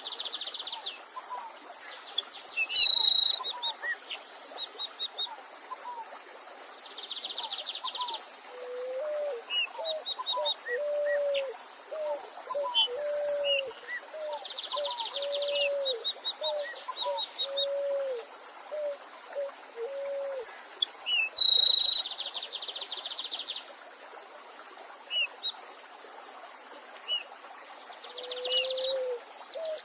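Mixed wild birdsong from several birds. Short, fast, buzzy trills recur every several seconds among high chirps, and a run of low, curving hooting notes comes through the middle and again near the end. A faint steady hiss of a stream lies underneath.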